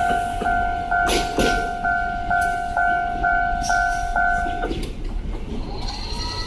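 Japanese railway crossing warning bell dinging about twice a second, then stopping about four and a half seconds in, with sharp knocks of train wheels passing over the diamond crossing's rail joints.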